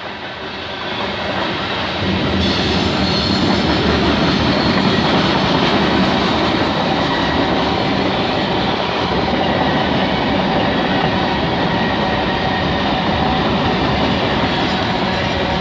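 Freight cars of a long freight train rolling past, their steel wheels running on the rails in a loud, steady clatter that grows louder about two seconds in.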